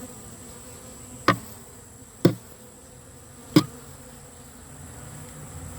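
Honeybees buzzing in a steady hum around an opened hive. About a second in, three sharp knocks sound, roughly a second apart.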